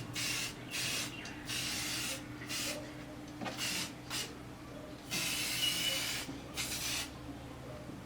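Aerosol spray paint can sprayed in a series of short hissing bursts, with one longer burst about five seconds in, as paint goes onto the frame. A steady low hum runs underneath.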